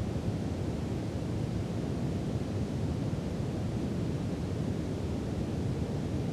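Brown noise: a steady, deep rumbling hiss with most of its weight in the low end and little treble, unchanging throughout.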